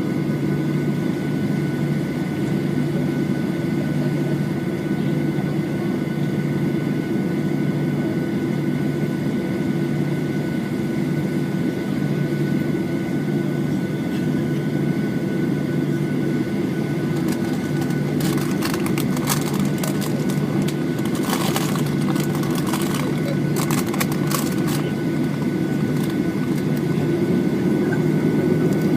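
Cabin noise inside a Boeing 737-8 on the ground: a steady low drone with several steady whine tones over it. A run of sharp clicks and rattles comes about two-thirds of the way in.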